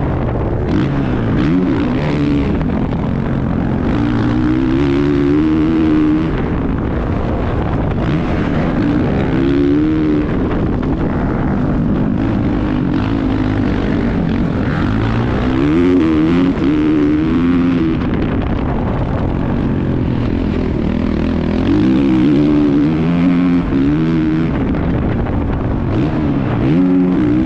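Motocross bike engine heard from the rider's helmet, revving up and dropping back again and again as the rider works the throttle and gears around the track, over steady wind and rushing noise.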